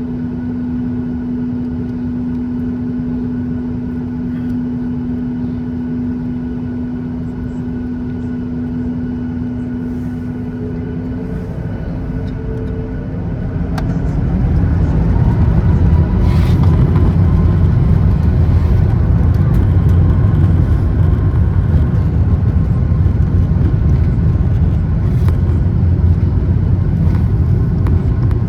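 Boeing 737 MAX 8 CFM LEAP-1B jet engines, heard from the cabin, humming steadily at low power. About halfway through they spool up with a rising whine, and the sound grows into a louder, steady rumble as takeoff thrust is set for the takeoff roll.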